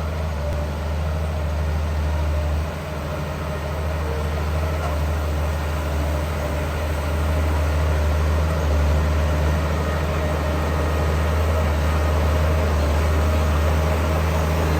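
Heavy diesel engine of earthmoving machinery running steadily with a deep, low hum, a brief dip about a third of the way in and growing a little louder in the second half.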